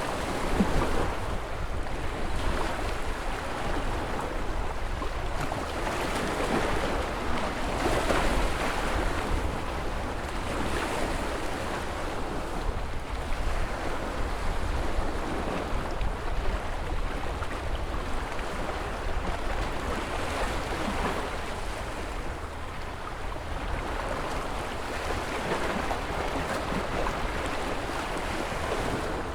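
Ocean surf: a continuous rush of waves breaking and washing in, swelling and easing every few seconds over a steady deep rumble.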